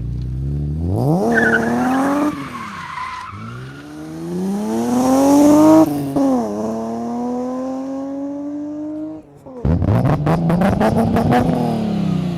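Euro-spec BMW E36 M3's 3.2-litre S50B32 straight-six, through a catless Supersprint exhaust, accelerating hard through the gears: three long rising pulls in pitch, each dropping sharply at a gear change. Near the end comes one more rough, rasping pull that rises and then falls away.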